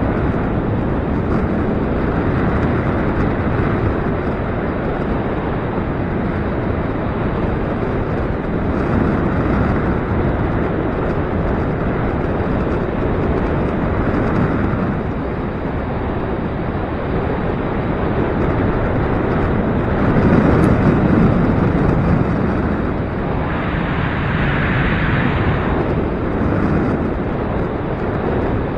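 Gusty wind buffeting the microphone, a steady rush that swells and eases, strongest about two-thirds of the way in.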